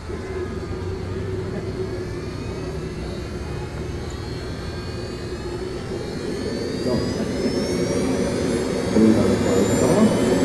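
Model jet turbine engine running, then spooling up from about halfway with a rising whine that grows louder toward the end.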